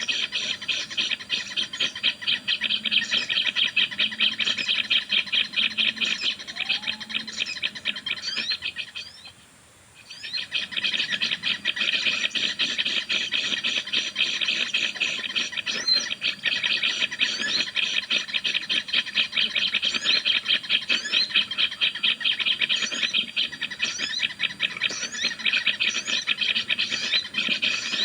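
Small songbird calls: a fast, ratchet-like chatter repeating many times a second, with short rising chirps above it. The chatter breaks off for about a second around nine seconds in, then carries on.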